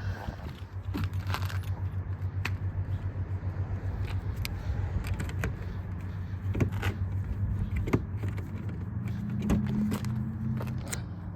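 2007 Audi A4's engine cranking over on the starter with an even, rapid pulsing, without catching: the car won't start.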